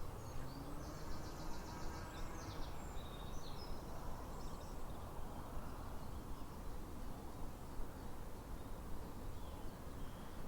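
Outdoor nature ambience: a steady low background hum, with birds giving quick high chirps in the first few seconds.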